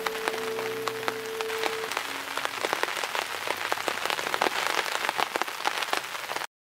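Rain falling, with many separate drops striking close by, until the sound cuts off suddenly near the end. Background music fades out about two seconds in.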